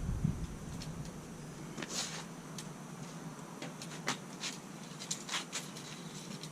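Faint, irregular sharp clicks and crackles, about a dozen scattered across a few seconds, over a steady low hum.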